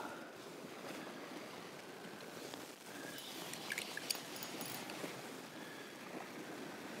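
Steady wash of the sea at the shoreline, with a short cluster of small clicks and ticks about three to four and a half seconds in.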